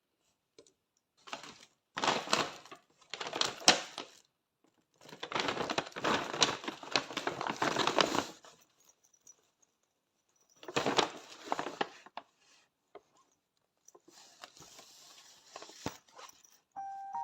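Gift wrapping being torn and crumpled by hand in a handful of rustling spells of one to three seconds each, the longest about five seconds in.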